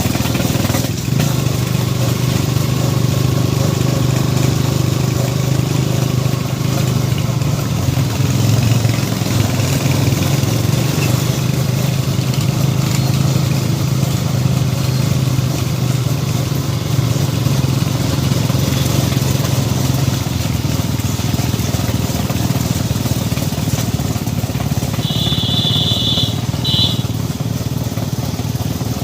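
Motorcycle engine running steadily while riding, with wind noise over it, easing off after about twenty seconds. Two short high beeps sound near the end.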